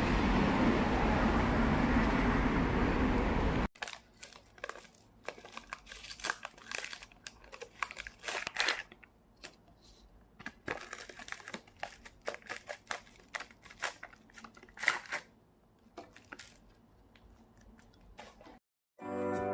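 Steady rumbling vehicle noise that cuts off abruptly after a few seconds, followed by irregular small clicks and rustles of something being handled close to the microphone. Music starts near the end.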